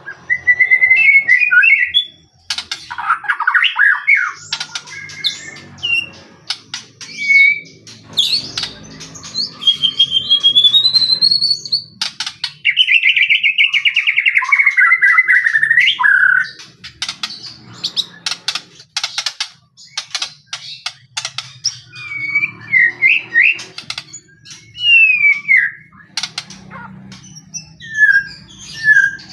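White-rumped shama (murai batu) singing loudly in varied phrases: rising and falling whistles, rapid trills and sharp clicking notes, broken by short pauses.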